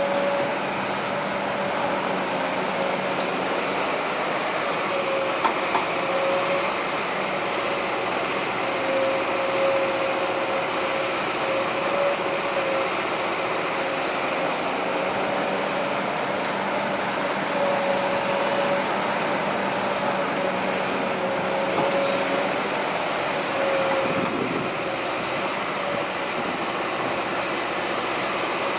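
Heavy diesel earthmoving machinery running steadily, with a wavering mid-pitched whine over the engine noise that rises and falls every few seconds.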